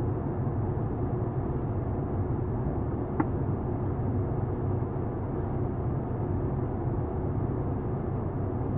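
Steady low hum of an idling vehicle engine, with one brief click about three seconds in.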